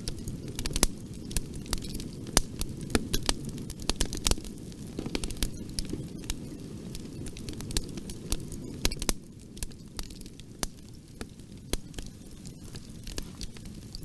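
Fire in a fireplace crackling, with frequent sharp pops and snaps over a steady low rumble. The pops come thick at first and thin out after about nine seconds.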